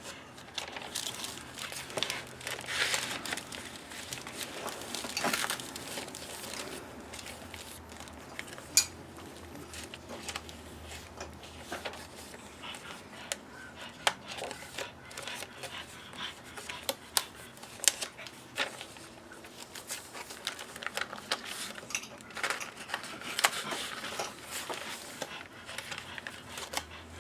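Paper pages and tags of a handmade junk journal being turned and handled: irregular rustling and crinkling of stiff coffee-dyed paper, with scattered light clicks and taps.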